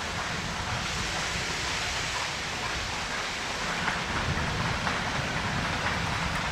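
Electric multiple unit (EMU) local train approaching on the track: a steady rushing noise, with faint wheel clicks on the rails starting about four seconds in.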